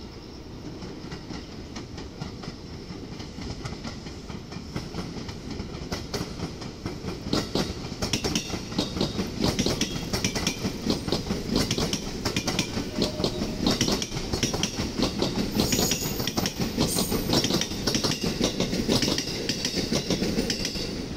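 Electric commuter train running slowly below, its wheels clattering over rail joints and pointwork. The clicking grows louder and denser from about seven seconds in.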